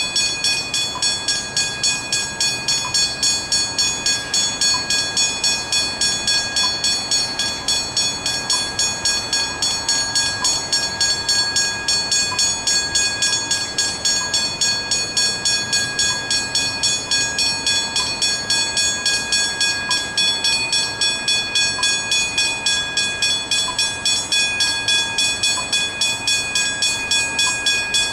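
Railway level crossing bell ringing continuously, in a fast even rhythm of about three strikes a second, as the crossing is activated.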